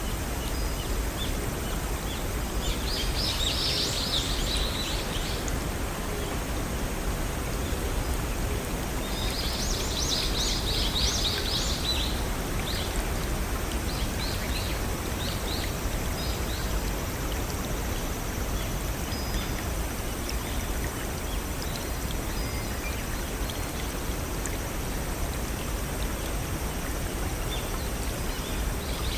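Steady rushing of a small brook over rocks, with songbirds singing over it: two bursts of song about three and ten seconds in, then scattered short chirps.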